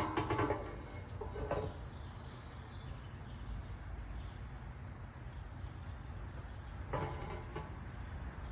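A sharp metal clank, then a few rattling, briefly ringing knocks about a second in and again near the end: the smoker and a metal pan being handled as the chicken comes off.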